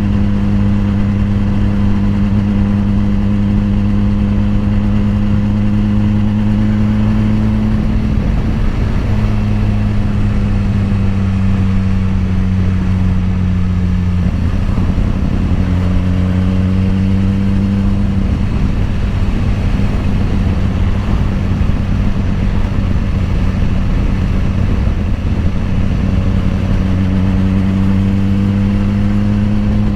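2010 BMW S1000RR's inline-four engine running at a fairly steady cruise, its pitch shifting slightly a few times.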